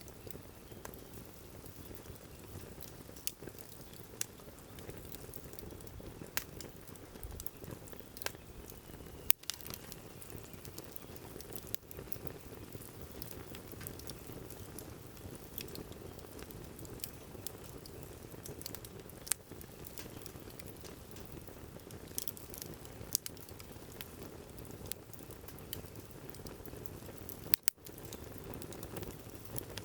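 Wood fire burning in a firewood grill, a steady hiss broken by scattered crackles and a few sharp pops, the loudest about nine seconds in.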